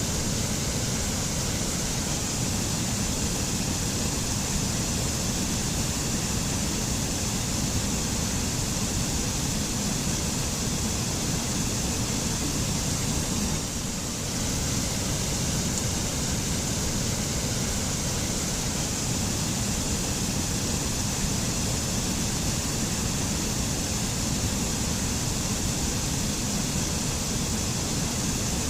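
Mountain waterfall, a steady rush of falling and splashing water that dips slightly for a moment about halfway.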